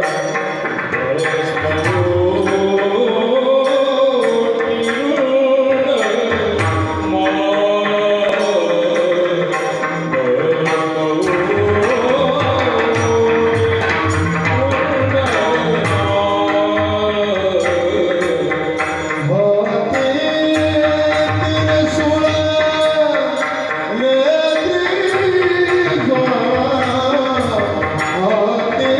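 Marathi devotional kirtan song: a voice sings a bending, melismatic melody over a steady rhythmic hand-drum and percussion accompaniment.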